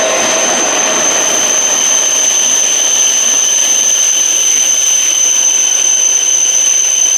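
E5 series Shinkansen train moving along the platform: a steady rushing noise from the passing cars with a high steady whine over it.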